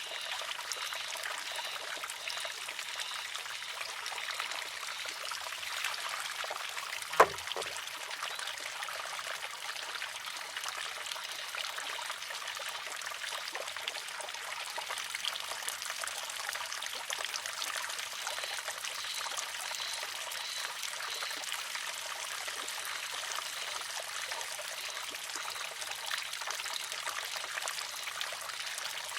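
Water trickling steadily into a wooden shishi-odoshi. About seven seconds in, one sharp clack as its pivoting arm tips over, empties and strikes the rock.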